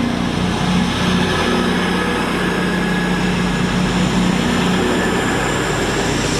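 Class 220 Voyager diesel multiple unit pulling away, its underfloor diesel engines running with a steady low note.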